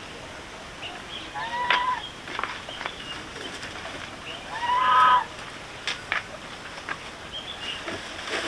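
Farm animal calls: a few short calls that rise in pitch then level off, the loudest about five seconds in, with scattered sharp clicks and knocks between them.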